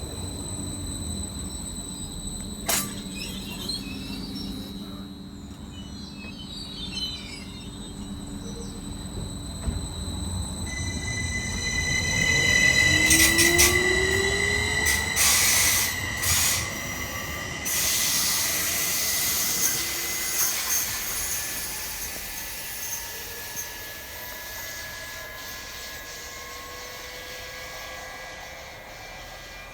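A train running on the rails with its wheels squealing in a steady high whine. It grows louder to a peak in the middle, with a few sharp knocks, then fades away.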